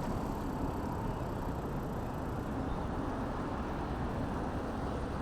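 Steady low rumble of riding a hire e-bike along a city road: road and wind noise picked up by a handlebar-mounted phone, with traffic around.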